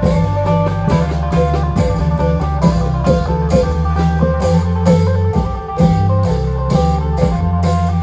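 Isan klong yao band playing: a plucked string lead over a heavy bass line and a steady, driving drum beat.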